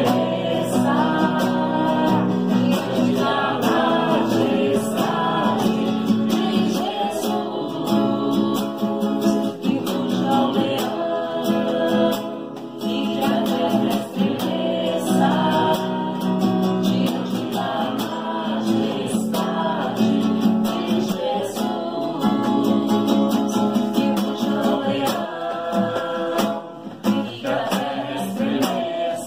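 A group singing a worship song with guitar accompaniment.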